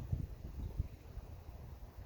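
Wind buffeting the microphone: an uneven low rumble that comes in gusts.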